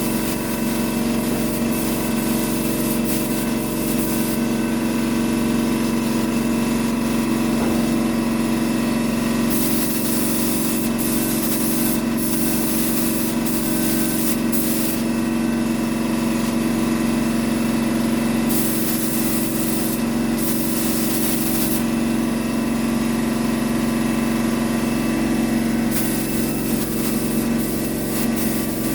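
Air compressor running steadily with a low hum, while a spray gun hisses in bursts of one to three seconds as a coat of paint is sprayed.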